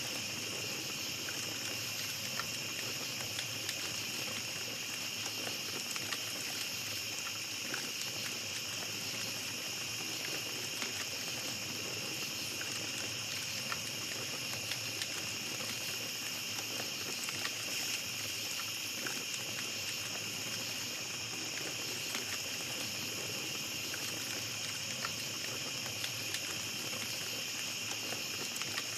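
Small campfire crackling, with scattered small pops, over a steady high-pitched chorus of night insects.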